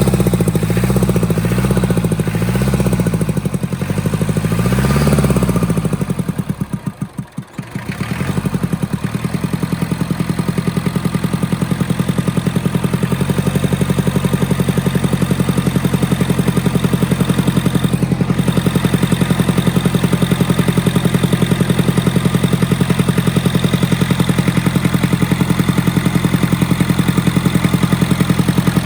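International diesel tractor engine running on its first start in 20 years with a new injector pump. Its speed rises and falls about once a second for the first several seconds, then slows sharply almost to a stop around seven seconds in. It picks up again into a steady run that rises slightly about thirteen seconds in.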